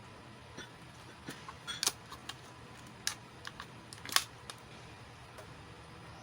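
Scattered light clicks and taps of small plastic miniature toy pieces being handled and set down, the sharpest about two seconds in and just after four seconds.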